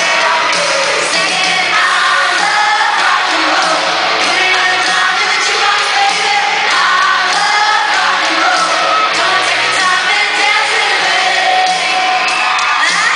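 Loud live pop music with singing, amid a crowd screaming and cheering, with high whoops near the end.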